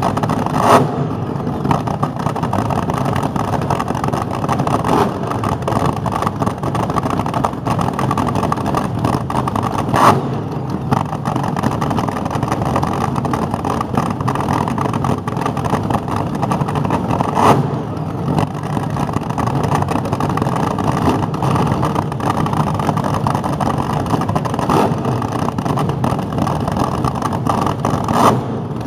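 Cars cruising past on a street with engines running in a steady loud mix, with four short, louder bursts spread across it.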